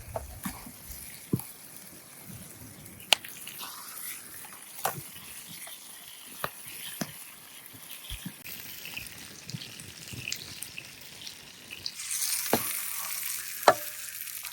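Meatballs sizzling in a reflector oven by a wood campfire: a steady hiss with scattered sharp pops and crackles. The hiss grows louder about twelve seconds in.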